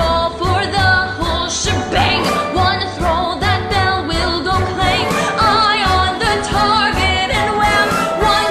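Music: a singer holding sung notes with vibrato over a show-tune karaoke backing track with a steady low beat.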